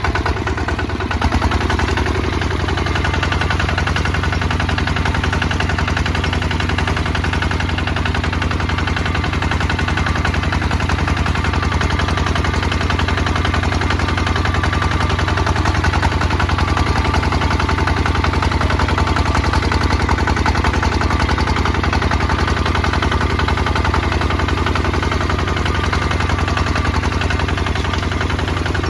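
Kubota ZT 155 DI's single-cylinder diesel engine running steadily with a rapid, even exhaust beat; it picks up a little about a second in.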